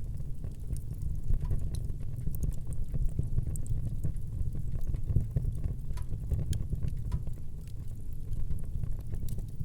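Wood fire burning in a fireplace: a steady low rumble of the flames with irregular small crackles and pops scattered throughout.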